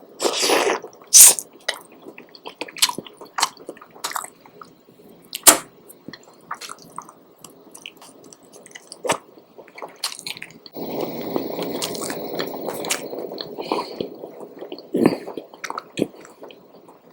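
Close-miked eating sounds: chewing with sharp, loud mouth smacks, and a steady wet stretch of chewing from about 11 to 14 seconds in.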